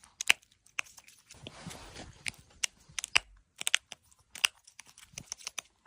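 Crow cracking pine nuts in its beak: a string of sharp, irregular cracks and clicks, with a short rustling scrape about a second and a half in.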